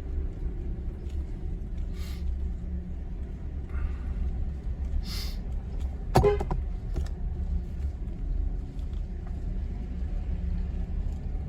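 Truck driving slowly, heard from inside the cab: a steady low engine and road rumble, with a few brief rattles and one short sharp sound about six seconds in.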